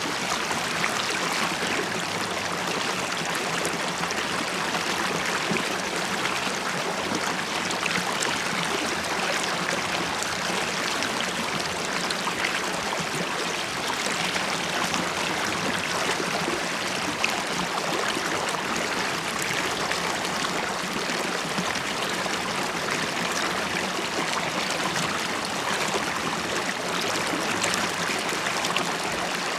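River water running over stones, a steady rushing with small bubbling and gurgling splashes.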